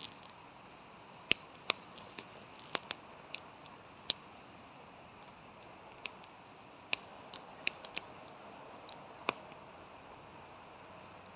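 A series of short, sharp clicks at irregular intervals, about a dozen in all, over a faint steady hiss.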